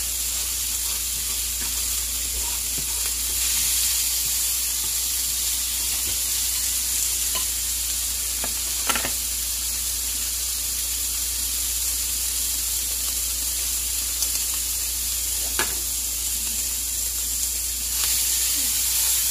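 Shrimp sizzling steadily in oil in a nonstick frying pan as they brown, with a few light clicks about nine and fifteen seconds in.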